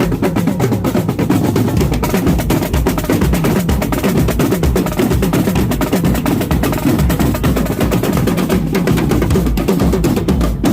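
Marching drum corps playing: rapid snare drum strokes and rolls over a steady pulse of bass drum beats.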